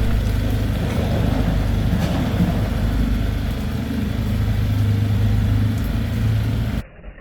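An engine running steadily with a low hum, then stopping abruptly near the end.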